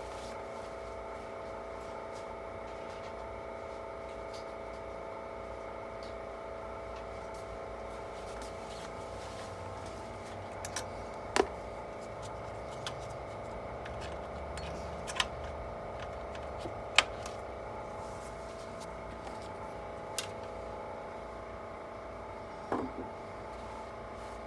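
A steady hum with a handful of scattered sharp clicks and taps, like small parts and tools being handled during computer disassembly work.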